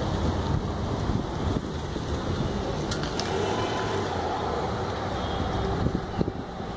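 Bentley Flying Spur creeping forward at low speed, its engine a low steady rumble under general street traffic noise.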